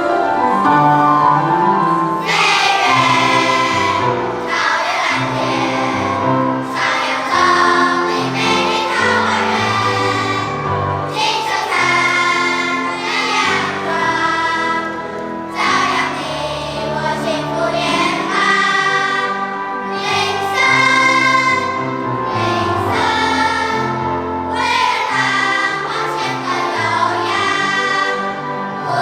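Children's choir singing with musical accompaniment; the voices come in about two seconds in after a short instrumental lead-in.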